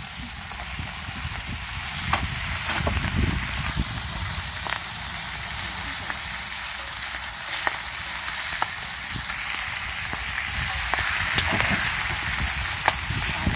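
Pork belly sizzling on a large iron griddle over a wood fire: a steady frying hiss with scattered sharp pops.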